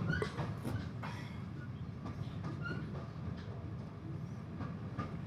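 Passenger carriage on the move: a steady low rumble of wheels and running gear on the track, with a few light clicks and short squeaks.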